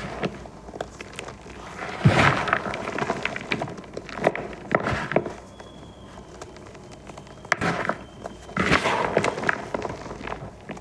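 Balls of dyed gym chalk crushed and crumbled by hand, crunching and crackling in several bursts with short pauses between.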